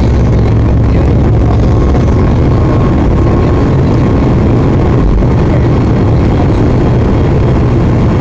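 Steady cabin noise inside a Boeing 737 MAX 8 airliner: a loud, even, deep drone of its CFM LEAP-1B engines and rushing air, with a faint steady tone above it.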